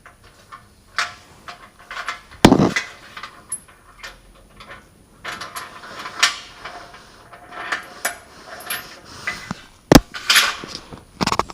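Irregular knocking, tapping and scraping coming from inside a chimney, with two sharp louder knocks, one about two and a half seconds in and one near the end.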